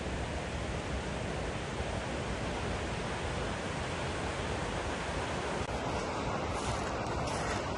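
Rushing river: a steady rush of flowing water, turning choppier near the end.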